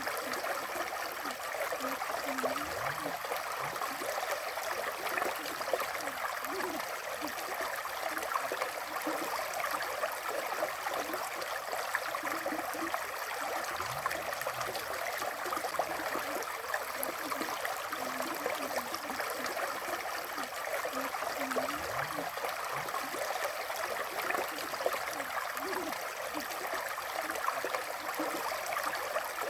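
River water flowing in a steady, even rush, with a few short low gurgles now and then.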